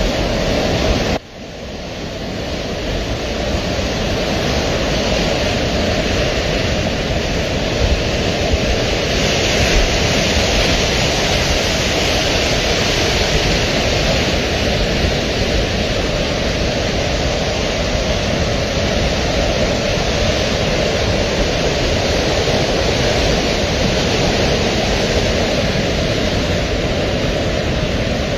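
Flash-flood torrent: a swollen mountain river rushing with a steady, loud roar of water. It breaks off briefly about a second in, then comes back and holds.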